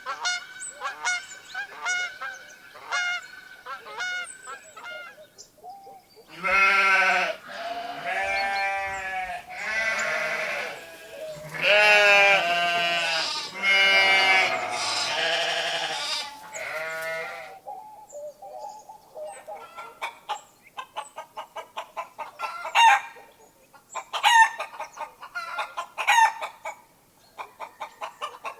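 Farmyard animals: geese honking in short repeated calls, then a run of loud, quavering bleats from goats or sheep, then hens clucking rapidly toward the end.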